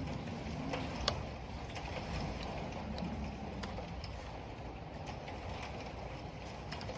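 Computer keyboard keys clicking at an irregular pace over a steady rush of wind and rain.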